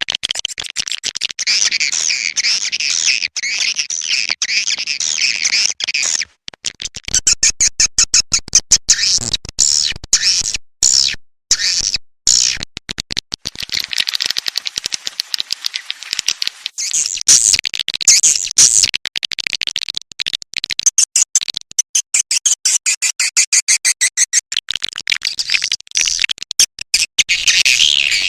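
Recorded swiftlet calls: dense, high chattering twitters, broken by rapid trains of dry clicks and a few brief silent gaps. This is a lure call played from swiftlet houses to attract edible-nest swiftlets to roost and nest.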